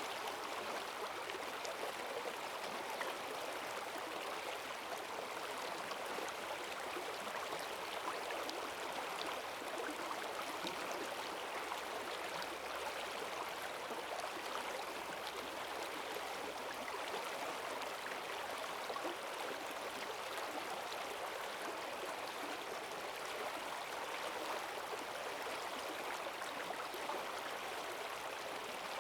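Forest stream running high after heavy rain: a steady rush of fast water over stones, with gurgling mixed in.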